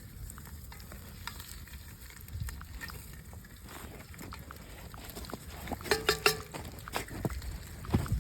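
Spam frying in a cast-iron Dutch oven over a campfire: faint sizzling with scattered small crackles over a low steady rumble. A short high-pitched cry cuts in about six seconds in.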